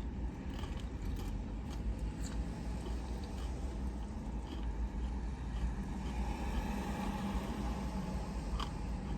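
Steady low rumble inside a parked car, with faint scattered clicks.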